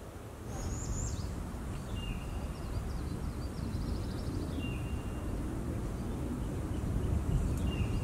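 Wild birds calling in the trees: a quick falling chirp, a rapid trill and a few short high whistles, over a steady low rumble.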